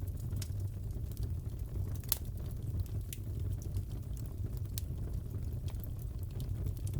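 Fireplace fire crackling: a steady low rumble of burning with scattered sharp pops and snaps, one louder pop about two seconds in.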